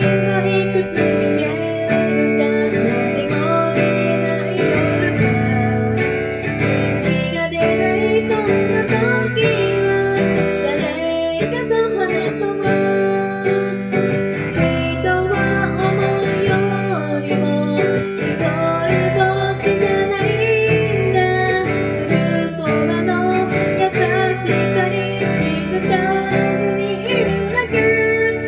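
Acoustic guitar playing a song in steady strummed chords, with a melody line over the chords.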